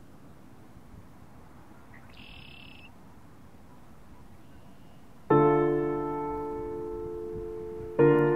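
Faint outdoor ambience with one short high bird-like chirp about two seconds in. About five seconds in, a soft solo piano chord is struck and rings out slowly, and a second chord is struck near the end.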